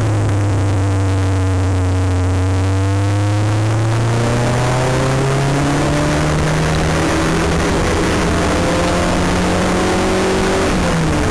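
Porsche 924's four-cylinder engine heard from inside the cabin, pulling hard as the race car accelerates. The engine note rises slowly and steadily, then drops sharply near the end.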